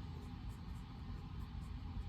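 Steady study-room white noise: an even low rumble with a soft hiss over it and no distinct events.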